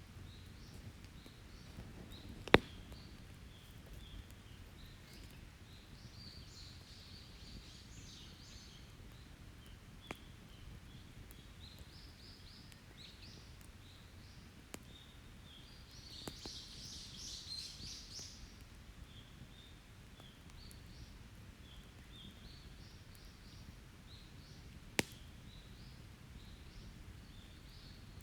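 Open wood fire giving a few sharp pops, the loudest about two and a half seconds in and another near the end, over birds calling in repeated short chirps that are busiest around the middle.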